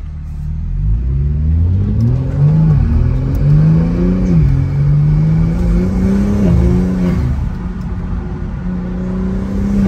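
BMW M3 Competition's S58 twin-turbo 3.0-litre straight-six, fitted with a MAD single midpipe, accelerating: the engine's pitch climbs and drops back three times as it shifts up, then holds steadier near the end.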